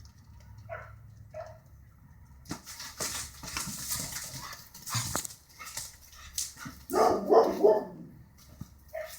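Border collie giving short whines and yips, then a loud burst of barking about seven seconds in. A stretch of rustling noise comes between them.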